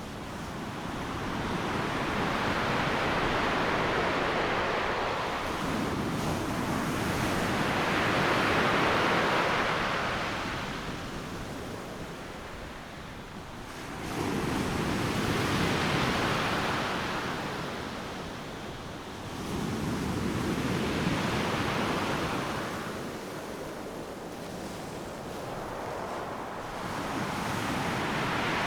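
Ocean waves breaking on a beach. The rushing surf swells and ebbs in slow surges every five seconds or so, with one wave crashing in suddenly about halfway through.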